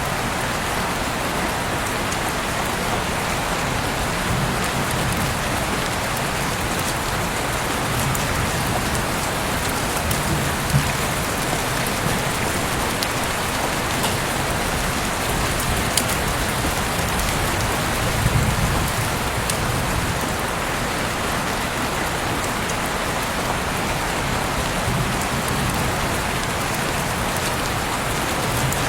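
Heavy rain falling steadily, a dense even hiss of drops with scattered individual drips, and a couple of brief low swells about ten and eighteen seconds in.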